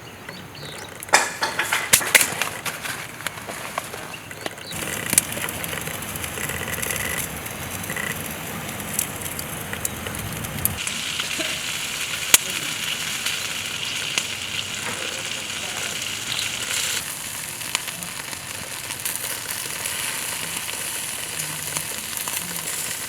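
Paella sizzling steadily in a pan over a campfire, with a few sharp clicks in the first couple of seconds.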